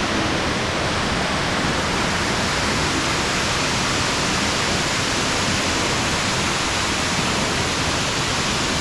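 Cave waterfall pouring into a pool close by: a loud, steady rush of falling water.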